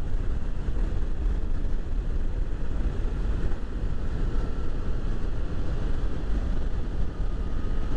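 Motorcycle riding at road speed: steady engine and wind noise over the rider's camera microphone, with no shifts or sudden changes.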